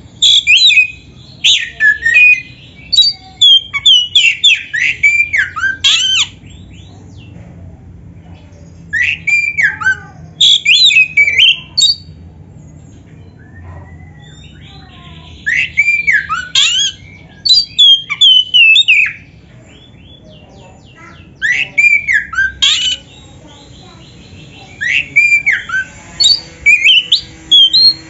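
Oriental magpie-robin (kacer) singing loudly in five bursts of rapid, sweeping whistled notes, with pauses of a few seconds between the bursts.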